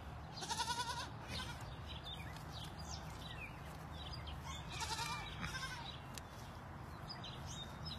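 Goat kid bleating twice, a short wavering call about half a second in and another about halfway through.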